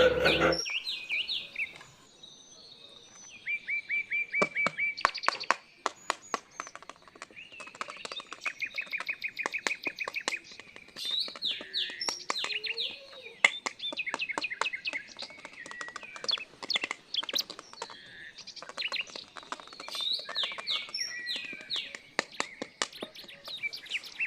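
Birds chirping, with short calls and quick trills repeating throughout.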